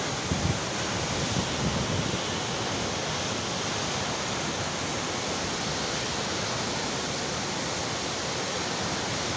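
Waterfall: a steady, even rush of falling water. A few brief low bumps, likely wind on the microphone, come in the first two seconds.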